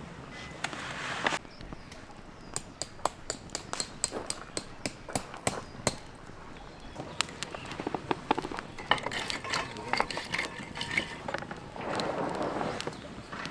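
Wood campfire crackling, with many sharp irregular pops and snaps and a couple of brief hissing swells.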